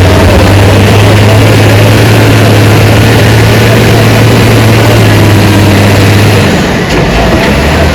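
Heavy diesel engine of earth-moving equipment running steadily with a deep, even drone, which drops away near the end.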